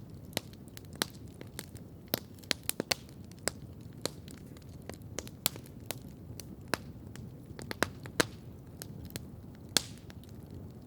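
Wood campfire crackling steadily: irregular sharp pops and snaps, several a second, some louder than others, over a low steady hiss of burning.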